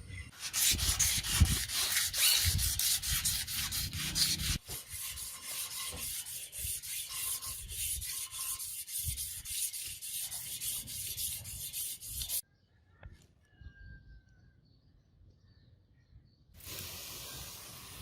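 Sanding in quick back-and-forth strokes, a rapid, rasping rhythm that stops suddenly about twelve seconds in. After a few seconds of near quiet, a steadier rubbing noise starts near the end.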